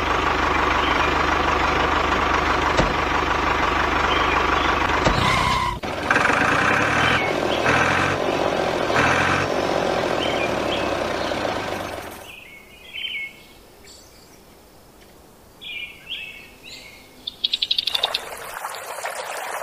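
A miniature toy tractor's motor runs with a steady mechanical whirr for about twelve seconds, then stops. After that, a few short bird chirps sound, and near the end comes a quick burst of clicks.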